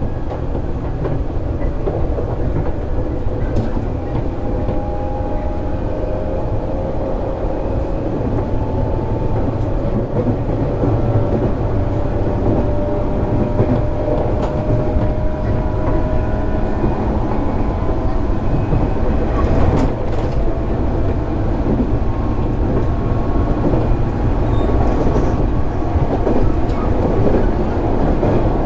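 JR East 205 series 600 subseries electric train running, heard from inside the car: a steady rumble of wheels on rail, with a faint whine slowly rising in pitch and a few clicks from the track.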